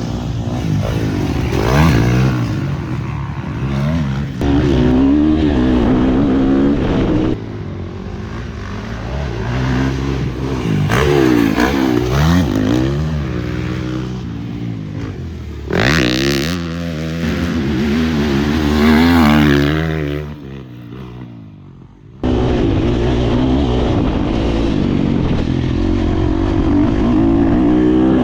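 KTM 350 four-stroke motocross bike being ridden hard, its engine revving up and falling back over and over through the gears and corners. About three-quarters of the way through it drops away, then comes back abruptly at full noise.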